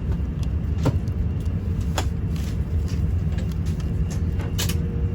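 Airliner cabin ambience: a steady low hum with a faint steady tone running through it, broken by a few sharp clicks.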